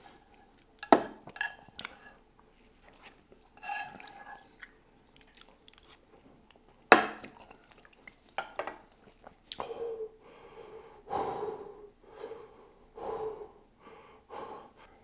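Chewing noodles, with two sharp clicks of chopsticks against the pan about a second in and again near the middle. A few short breathy mouth sounds follow in the last few seconds.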